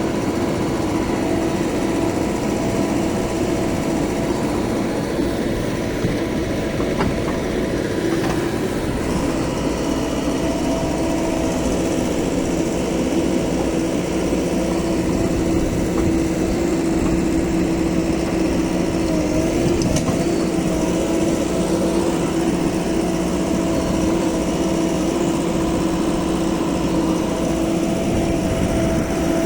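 Diesel engines of a backhoe loader and tractors running steadily under work, with a steady droning hum that dips slightly in pitch about two-thirds of the way through.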